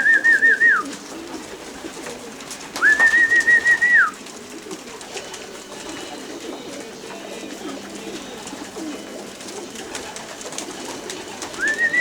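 Trilled whistle calling racing pigeons in to the loft, heard briefly at the start, again about three seconds in for just over a second, and once more just before the end. Pigeons coo steadily underneath.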